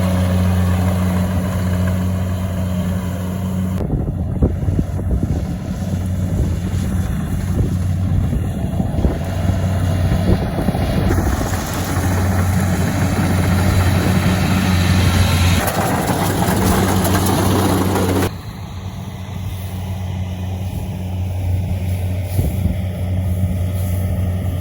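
A small engine running steadily at constant speed, with a low, even hum. The sound changes abruptly about four seconds in and again near eighteen seconds.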